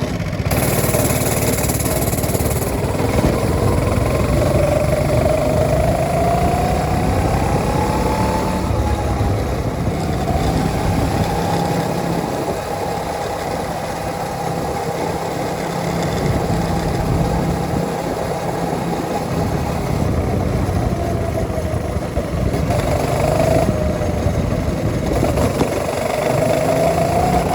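Go-kart engine running as it drives, its pitch rising and falling as it speeds up and eases off.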